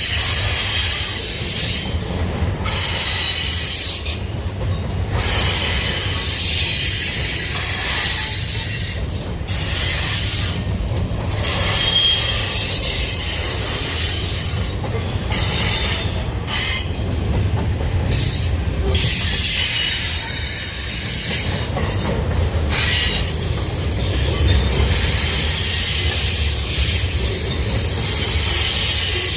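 Union Pacific intermodal freight train cars rolling past: a steady low rumble of wheels on rail, with high-pitched wheel squeal at several pitches that comes and goes.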